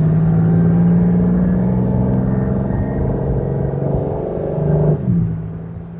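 Porsche 911 Carrera GTS's 3.6-litre flat-six boxer engine running at steady revs under way, its pitch holding level. About five seconds in the revs drop sharply with a gear change, and the sound then eases off.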